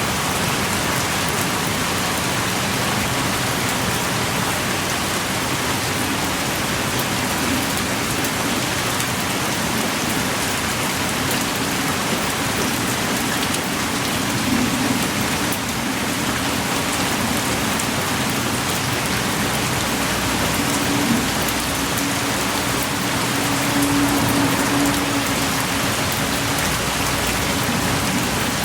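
Heavy rain pouring steadily, a dense even hiss of drops with scattered sharper drips.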